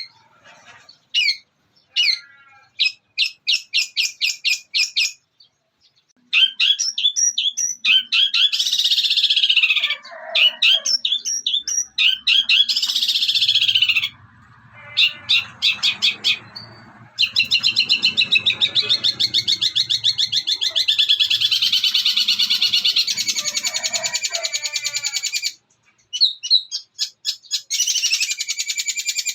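Long-tailed shrike (cendet) singing a varied mimicking song, its 'isian' of copied calls including house sparrows squabbling. Runs of sharp repeated notes and harsh chattering give way in the second half to a long, fast rattling trill, then more chatter near the end.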